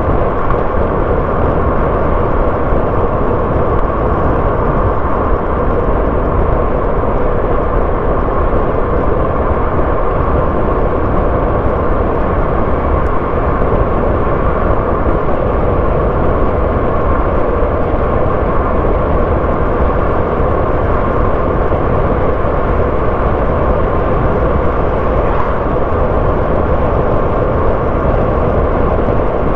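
Car travelling at a steady speed: an even, unbroken mix of engine and tyre-on-road noise.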